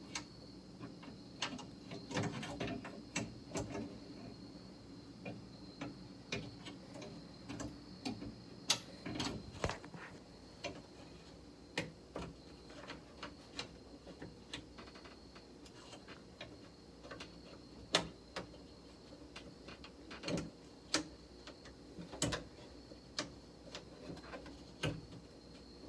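Irregular light clicks, taps and small knocks of metal parts being handled and fitted inside a car door, spread unevenly through the stretch.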